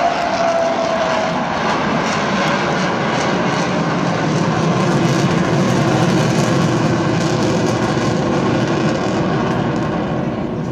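Avro Vulcan's four Rolls-Royce Olympus jet engines running loud as the bomber flies a display, a steady rushing roar with a faint whistle that falls slightly in pitch in about the first second.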